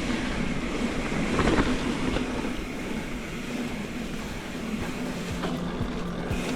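Mountain bike rolling along a dirt forest trail: a steady rumble of tyres and wind buffeting the helmet or handlebar camera, with a few sharp knocks as the bike rattles over bumps.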